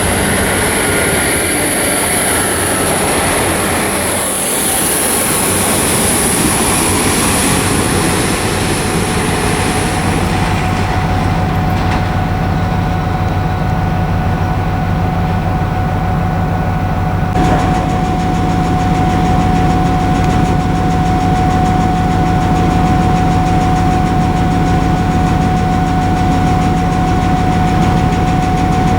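Railway locomotive running at a station, a steady machine hum with a high whine that fades out about ten seconds in, after which a steady tone remains. A single click about 17 seconds in.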